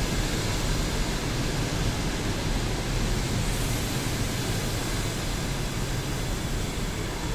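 Passenger train pulling into the platform, its coaches rolling slowly past with a steady noise and a low hum.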